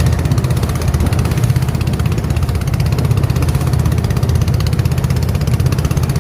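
Small boat's engine running steadily at an even speed, a low, constant drone with a fast regular beat.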